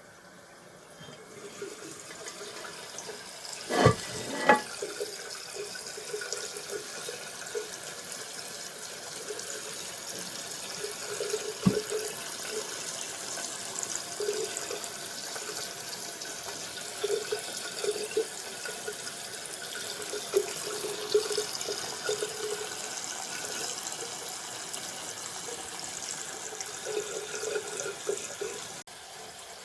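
Water running steadily into a toilet tank through its fill valve. Two sharp knocks come about four seconds in and another near twelve seconds.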